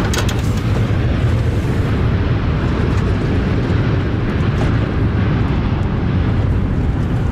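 Strong gusty wind buffeting the microphone: a loud, steady low rumble.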